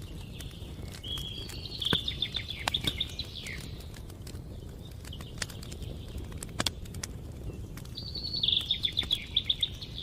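Wood fire crackling with scattered sharp pops, and a songbird singing twice, each a short trill of rapid high notes.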